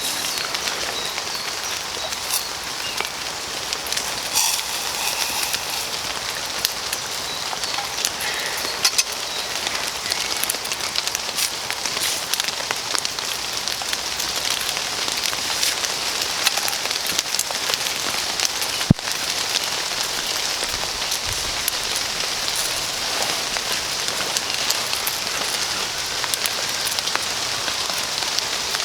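Steady rain falling hard, an even hiss dotted with many small drop ticks, and one sharp click a little past halfway.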